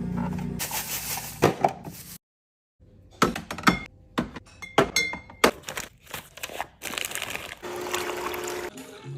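Food containers being handled while restocking a fridge: sharp clinks and knocks of glass, some with a short ring, between stretches of pouring or rustling. The sound drops out completely for about half a second around two seconds in.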